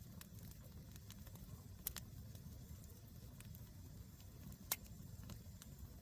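Campfire crackling faintly, with scattered small clicks and two louder pops, one about two seconds in and one near the end, over a low steady rumble.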